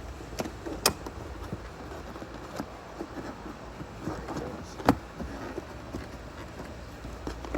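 Handling noises: scattered light knocks and rattles, with two sharp clicks about a second in and near five seconds in, over a steady low hum.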